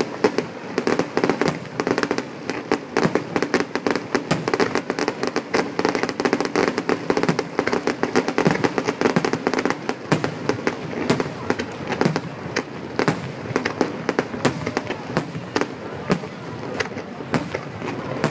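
Fireworks display: a dense, continuous barrage of cracks and bangs, many a second without let-up.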